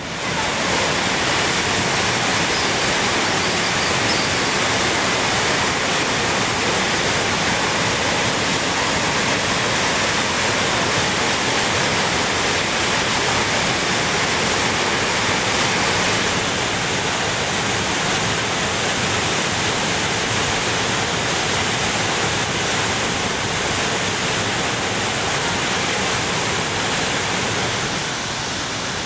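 Steady rush of falling water from the Orkhon Waterfall (Ulaan Tsutgalan), a dense, even roar that comes in abruptly at the start and eases slightly near the end.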